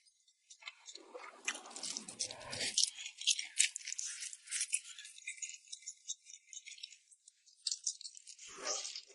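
Close-miked eating of rice noodles in red chili oil: a dense run of quick, crisp, wet clicks and crackles.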